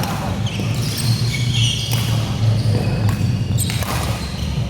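Badminton play in a large hall: several sharp racket strikes on the shuttlecock, roughly a second or more apart, over a steady low hum.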